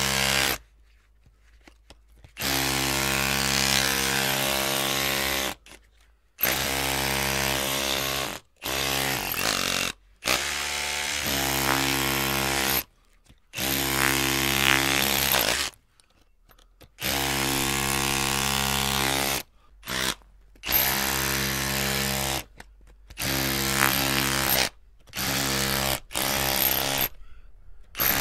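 Electric drill motor running in repeated bursts of one to three seconds, each at a steady pitch, stopping and starting again after short pauses.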